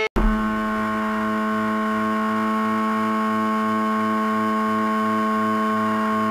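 A steady, unchanging drone of several held tones with a low pulse about three times a second, cut in and cut off abruptly.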